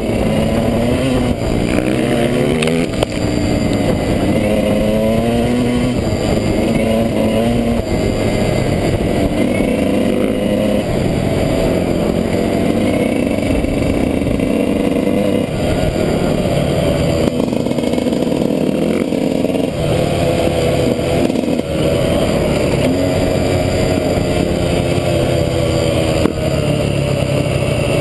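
Dirt bike engine running hard on a trail ride, its pitch rising and falling over and over as the rider works the throttle and gears.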